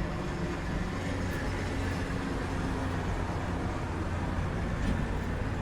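Steady low rumble with a faint hum, and a few faint clicks.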